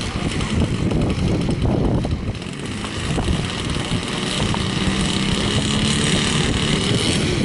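A motor running steadily, mixed with low wind rumble on the microphone.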